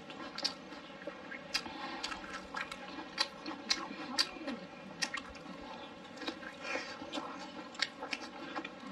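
Close-miked chewing of a mouthful of food, with irregular sharp mouth clicks and smacks about once or twice a second.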